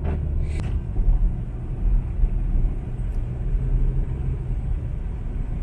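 Steady low rumble of a car driving slowly on a snowy road.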